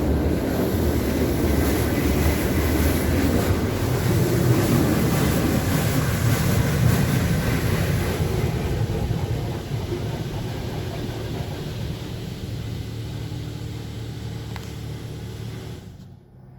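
Coleman Hanna Water Wizard 1.0 in-bay automatic car wash running its spray cycle: pressurised water spraying against the car over a steady mechanical rumble. It eases off from about ten seconds in and stops abruptly about a second before the end.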